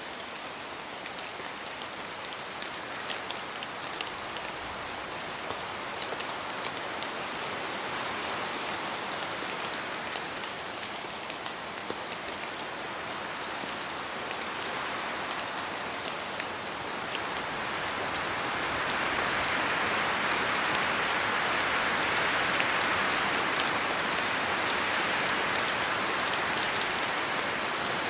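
Steady rain falling in a forest, with many separate drop ticks over an even hiss; it swells louder about two-thirds of the way through.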